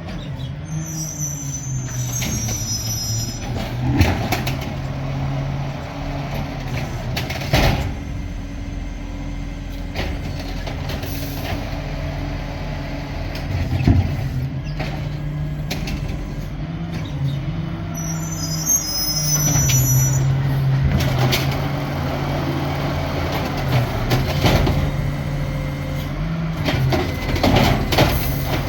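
Garbage truck's diesel engine running, with the revs stepping up and down as it works and a rise near the middle. Several loud bangs along the way, the sharpest about 4, 7 and 14 seconds in.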